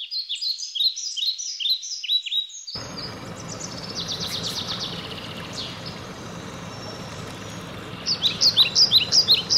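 Songbird singing quick series of high, down-slurred notes, about four or five a second, with a fast trill in the middle. About three seconds in, a steady low outdoor rumble and hiss joins under the song.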